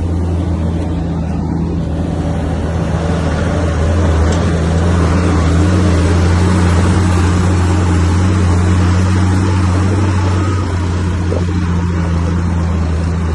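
Heavy diesel earthmoving machine, most likely a Komatsu bulldozer, running steadily under load, its engine note rising somewhat about four seconds in and easing back near the end.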